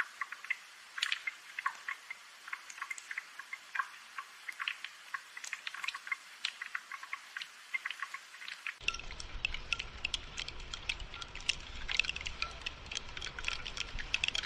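Rainfall: a steady patter of many irregular, sharp drops ticking and dripping. About nine seconds in, a low rumble joins it.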